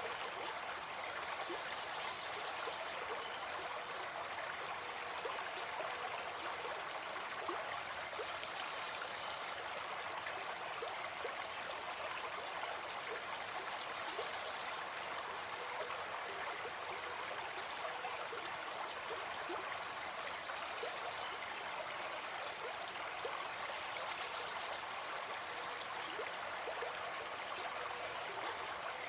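Gentle stream flowing steadily: an even rush of water with many tiny splashing ticks in it.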